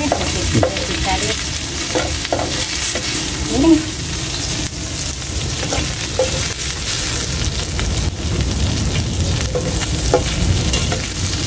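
Garlic and vegetables sizzling as they sauté in hot oil in a pan, stirred with a utensil that scrapes and knocks against the pan now and then.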